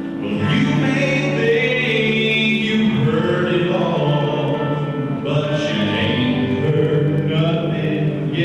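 A choir singing, several voices holding notes together and moving from note to note.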